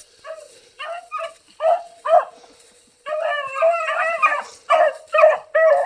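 A hunting dog giving a run of short, high yips and cries, with a longer unbroken cry from about three seconds in, then more short yips.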